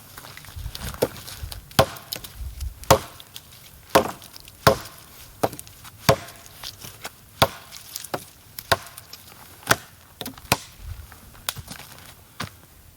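Axe chopping larch firewood: about fifteen sharp strikes at an uneven pace of roughly one a second.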